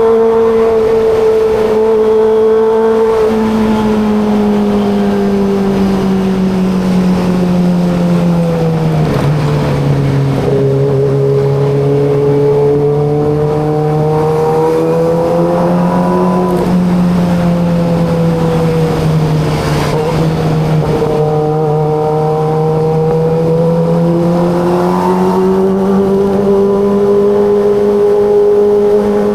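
Kawasaki ZX25RR's 249 cc inline-four engine running under way, its note gliding slowly down and up rather than revving sharply: the pitch sinks about a third of the way in and climbs again near the end.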